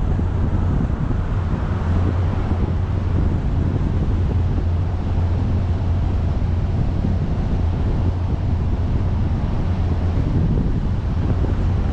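Steady wind buffeting on the microphone over a constant low rumble, as from a camera travelling on a moving vehicle.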